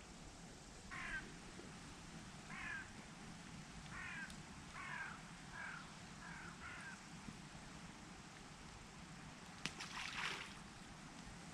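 A bird calls seven times in short descending calls about a second apart, over a steady low background. Near the end comes a brief cluster of clicks and rustling.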